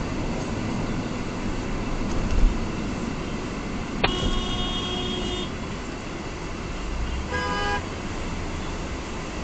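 Car horn honking twice over steady road noise heard from inside a moving car: a sharp-onset blast about four seconds in lasting about a second and a half, then a shorter one a few seconds later.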